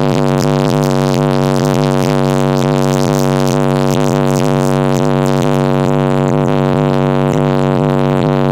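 A competition car audio system playing bass-heavy electronic music at very high volume, a loud steady low bass note holding throughout with a dense, distorted buzz above it.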